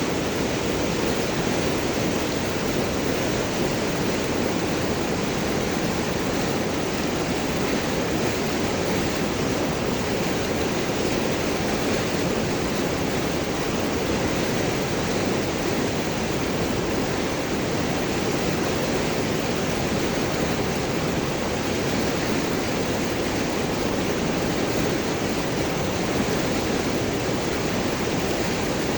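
River water rushing and gurgling around large rocks, a steady, unbroken flow with a deep, full rush.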